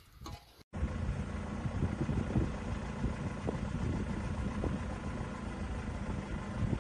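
A steady engine-like hum with a noisy rumble. It cuts in suddenly just under a second in, after a brief moment of quiet.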